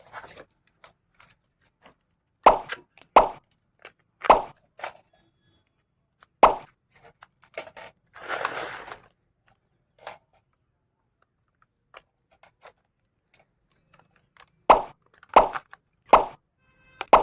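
Toy packaging and parts being handled: scattered short taps and knocks, in two clusters, with a brief rustle about halfway through.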